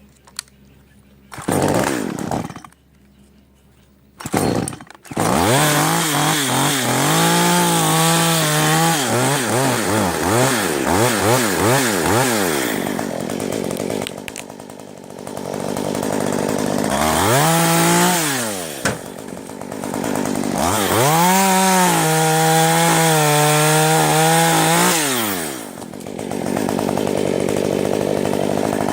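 Gasoline chainsaw engine: two short bursts in the first few seconds, then running continuously and revving up and dropping back again and again as it cuts wood.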